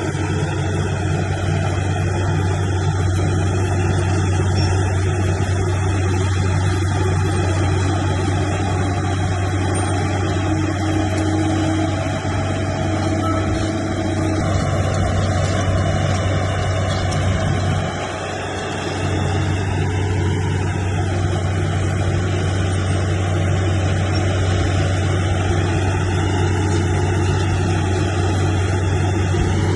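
Heavy diesel engine of earthmoving machinery running steadily with a deep drone, easing off briefly a little past halfway and then picking up again.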